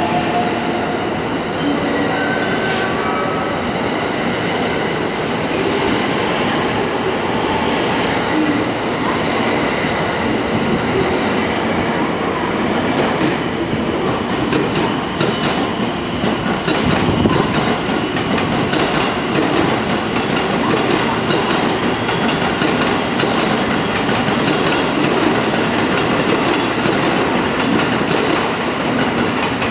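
Thunderbird limited express electric train running along the platform: a steady rumble of wheels on rails with clicking over rail joints, and brief motor whining tones in the first few seconds.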